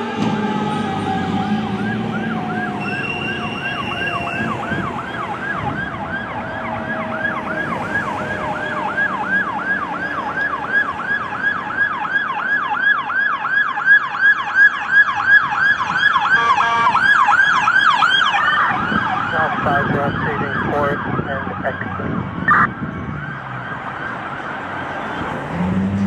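Fire apparatus sirens on an emergency response: an electronic yelp siren sweeping rapidly up and down, over a second siren tone slowly winding down in the first part. A run of loud short blasts comes near the middle.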